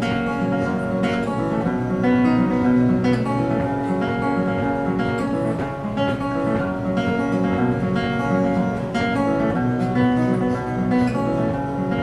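Acoustic guitar strummed and picked in a steady rhythm, playing an instrumental passage of a folk song with no voice.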